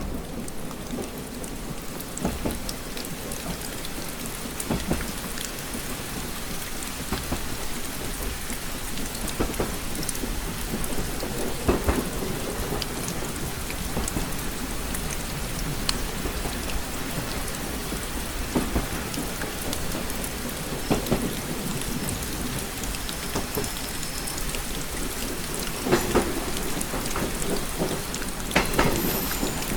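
Rain pattering steadily on a window, with scattered louder drops tapping sharply every second or so over a steady low rumble.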